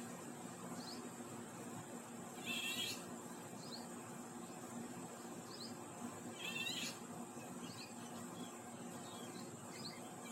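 A bird gives a short call twice, about four seconds apart, with faint short chirps from other birds in between.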